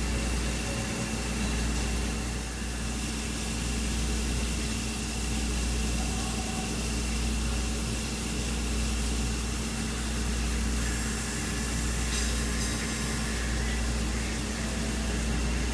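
Haas CNC mill running a grinding wheel, grinding chip breakers into the brazed carbide tips of a milling cutter. It is a steady low hum with a thin, constant high whine.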